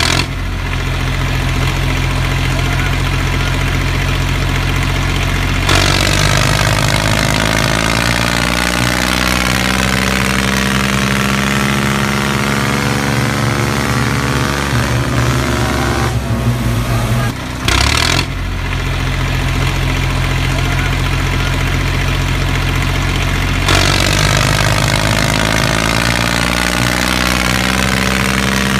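Tractor engine running, its pitch rising and falling several times as it revs.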